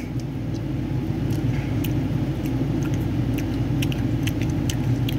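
Skittles candy being chewed, a scatter of small faint clicks, over a steady low rumble.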